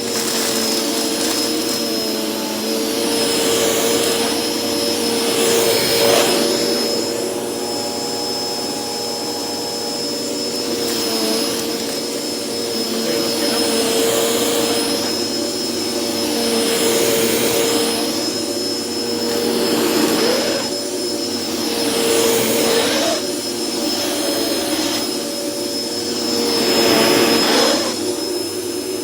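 Dirt Devil Express Vac hand vacuum running steadily, its motor whine constant while the rush of air swells and falls every few seconds as it picks up scattered nuts.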